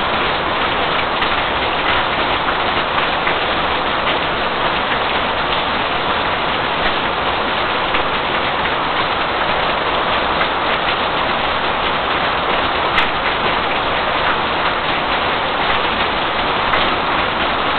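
Heavy rain pouring down in a severe thunderstorm: a dense, steady hiss of downpour that neither builds nor fades.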